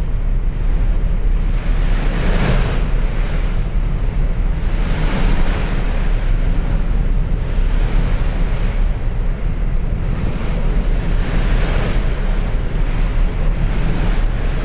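Wind buffeting the microphone aboard a moving ferry over a steady low rumble, with the rushing wash of sea water swelling and fading every couple of seconds.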